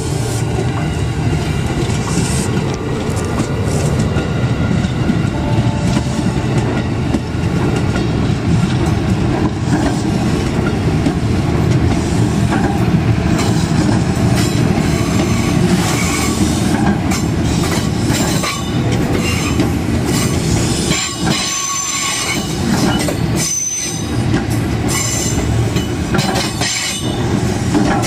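KRL commuter electric train rolling slowly through a tight curve: a steady rumble of wheels on rail, with high-pitched wheel squeal coming and going, clearest over the last third. The squeal is the flanges grinding on a curve sharp enough to carry a speed limit of about 20 km/h.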